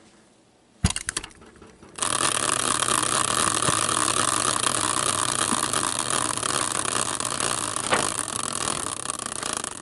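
Prize wheel spinning, its pointer clicking rapidly against the pegs. A single knock comes about a second in, the rapid clicking starts about two seconds in, and it eases off toward the end as the wheel slows.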